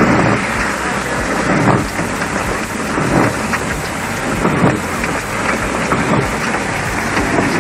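Heavy rain pouring in a downpour, a dense steady rush with a few louder swells every second and a half or so.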